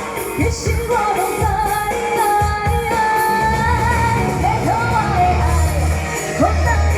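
Female singer singing a Taiwanese pop song live, with a sustained melody line over accompaniment with a steady drum and bass beat.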